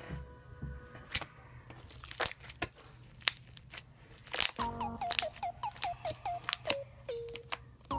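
Slime being handled, popping and crackling in a string of sharp irregular clicks, over background music; a melody of short falling notes comes in a little past halfway.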